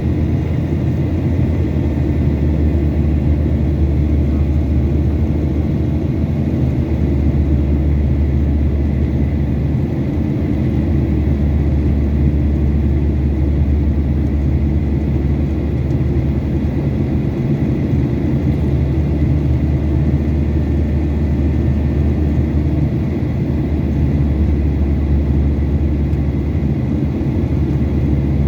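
Steady, loud, deep rumble of a Boeing 737-800's CFM56-7B jet engines running, with faint steady whining tones above it.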